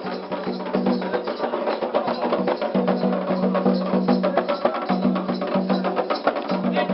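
Candomblé ritual music: hand drums and a struck percussion instrument playing a fast, dense rhythm, with voices holding sung notes over it.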